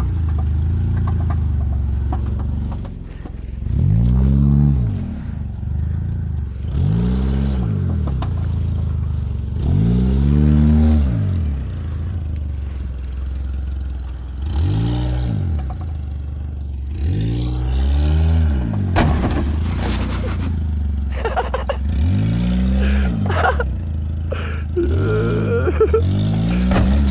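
A Chevy Cavalier's engine revving up and dropping back again and again, about nine surges, as the car is driven repeatedly into a boat. Scraping and clattering from the impacts, with a few sharp knocks in the second half.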